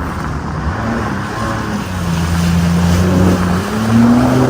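Jet ski engine running under throttle over a rush of wind and water. The engine note climbs near the end.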